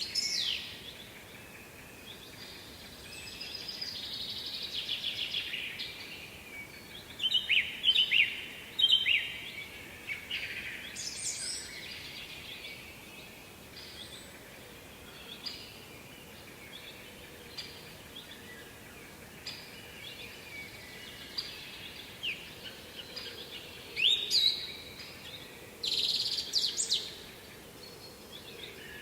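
Songbirds singing in short, high, trilling phrases with gaps between them, loudest a quarter of the way in and again near the end, over a faint steady background hiss.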